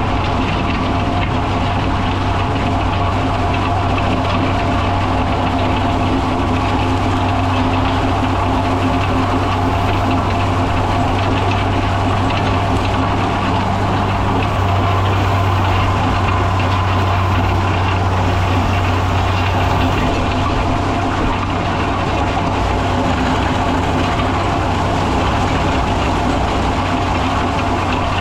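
Tractor engine running steadily with a steady low hum, pulling a hay tedder across the field.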